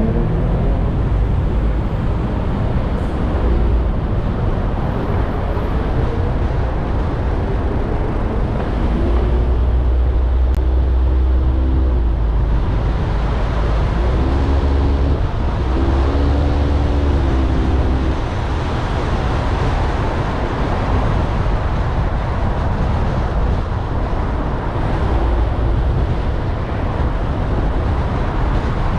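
A car driving on city roads: steady road and engine noise with a deep rumble. A low droning tone rises in twice during the middle, at about 9 and about 14 seconds.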